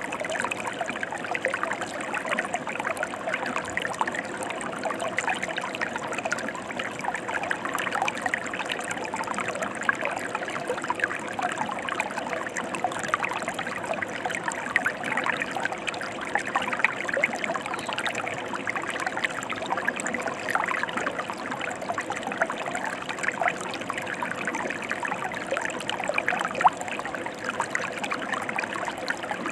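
Mountain river flowing steadily, a constant babble of many small splashes.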